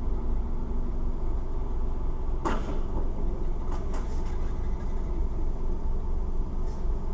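Steady road and engine rumble of a moving vehicle, with one sharp bang about two and a half seconds in and a few lighter knocks around four seconds.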